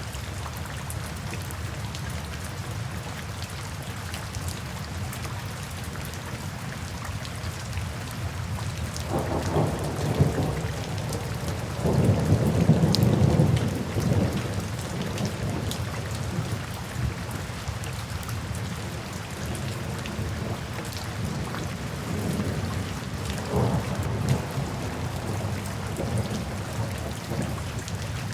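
Steady rain with thunder: a low rumble builds about a third of the way in, is loudest for a couple of seconds, then dies away, and a weaker rumble follows later.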